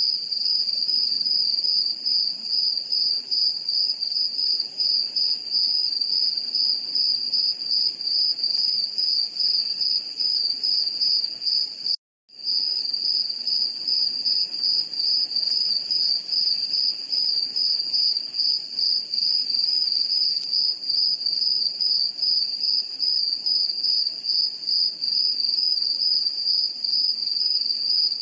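Crickets chirping in a steady, high-pitched continuous pulsing trill. The sound cuts out completely for a fraction of a second about twelve seconds in, then resumes unchanged.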